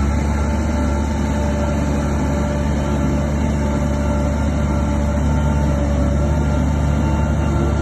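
Heavy diesel engine of a bulldozer running steadily, a deep drone with a faint steady whine above it.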